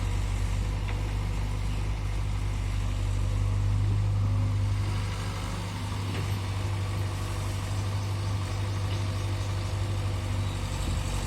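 Diesel engine running steadily at low speed with a deep, even hum, a little louder around four seconds in and easing back about a second later.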